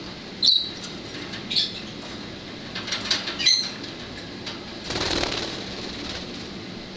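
Budgie bathing in a shallow water bowl, fluttering its wings and splashing for about a second, about five seconds in. Short high budgie chirps come before it.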